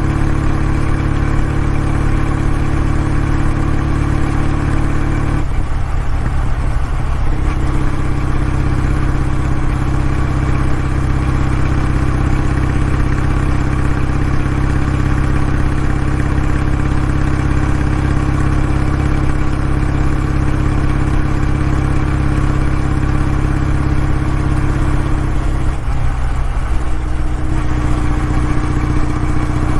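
Kawasaki W650 parallel-twin exhaust, running loud at a steady pitch. Twice the note briefly breaks up and wavers, once about five seconds in and again near the end, before settling back.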